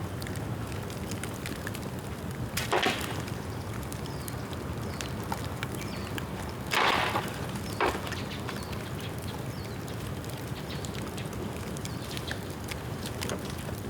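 Bamboo bonfire burning, with a steady low rush of flame and scattered crackling. Three louder sharp pops come about three seconds in, around the middle and a second after that, as the burning bamboo cracks.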